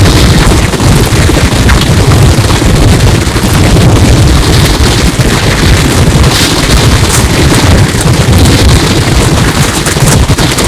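Strong wind buffeting the microphone, loud and distorted, with a deep rumble and a hiss that swells and fades in gusts.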